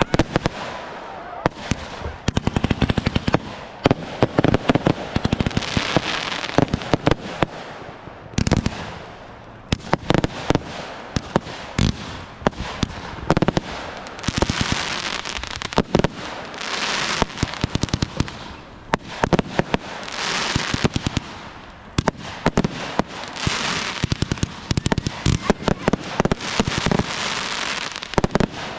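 Fireworks going off: a quick, irregular string of sharp bangs, with several drawn-out bursts of crackling in between.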